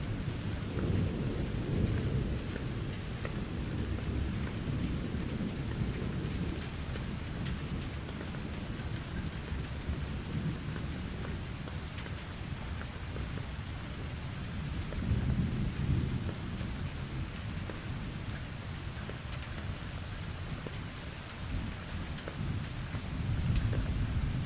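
Steady rain falling with low rolling thunder; the rumble swells three times: at the start, about midway and near the end.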